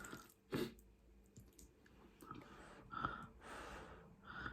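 Faint eating sounds: scattered mouth and utensil clicks and a breath, from someone eating close to the microphone.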